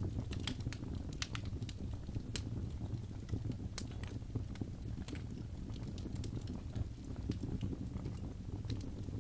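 Wood fire burning in a fireplace: irregular sharp crackles and pops from the burning wood over a low, steady rumble of the flames.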